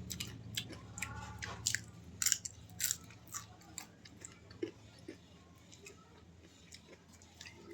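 Close-up chewing and biting of food: crisp crunches and wet mouth clicks, frequent at first and thinning out after about three seconds, over a faint low hum.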